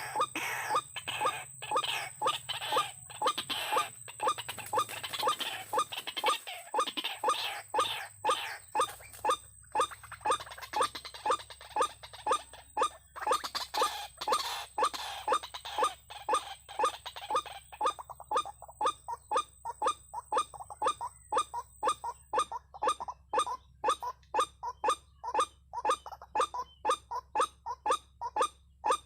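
White-breasted waterhen calling: a long, steady run of short, sharp, rising notes, about two a second.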